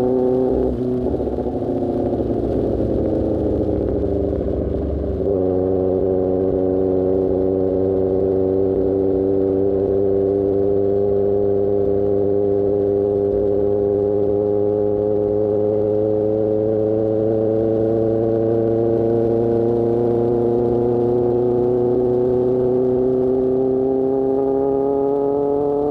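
Superbike engine through an Austin Racing GP1R aftermarket exhaust, heard from the rider's seat. The revs fall over the first few seconds, then the bike settles about five seconds in to a steady cruise, the engine note rising slowly near the end.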